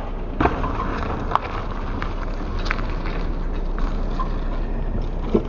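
Steady rushing of a rain-swollen stream, with a few short knocks over it.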